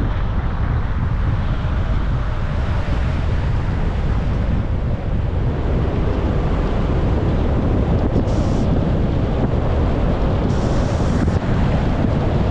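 Steady road and wind noise of a car driving: a constant low rumble with wind buffeting the microphone, and two short higher hisses near the end.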